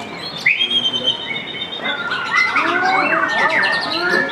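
White-rumped shamas (murai batu) singing: varied clear whistles, pitch sweeps and rapid trills from several birds overlapping, busiest in the second half.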